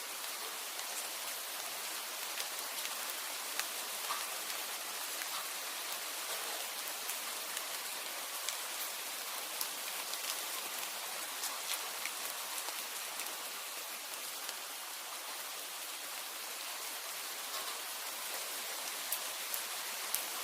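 Steady rain hiss with scattered sharp ticks.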